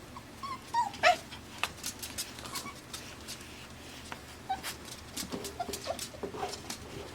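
Five-week-old Pembroke Welsh Corgi puppies whimpering and yipping in short, sliding calls, the loudest about a second in, amid light clicks and taps.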